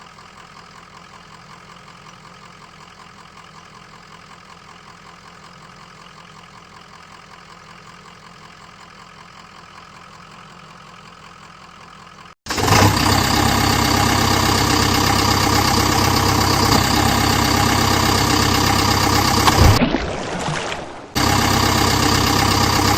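Tractor engine idling steadily, faint at first, then abruptly much louder from about halfway in, with a brief drop near the end.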